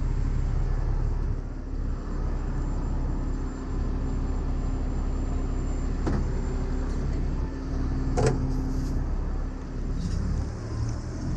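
A truck engine idling steadily, with two sharp clicks about six and eight seconds in, the second louder.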